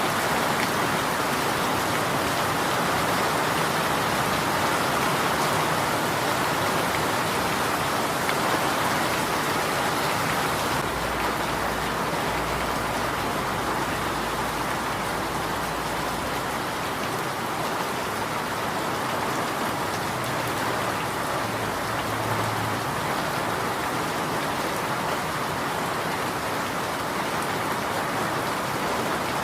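Steady rainfall, an even hiss of drops. A low rumble joins it for several seconds about eleven seconds in.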